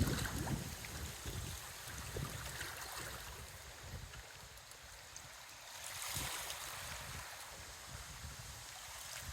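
Strong wind gusting over the microphone, a low buffeting rumble that is strongest at the start and then eases, with a brief swell of rushing hiss about six seconds in.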